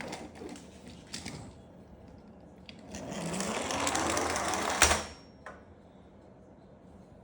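Plastic toy truck rattling and whirring: a few clicks, then a rapid mechanical whir that rises in pitch for about two seconds and ends in a sharp clack.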